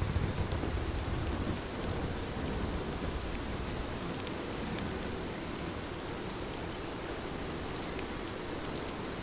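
Heavy rain falling steadily, with the patter of individual drops. A low rumble swells during the first couple of seconds, then fades.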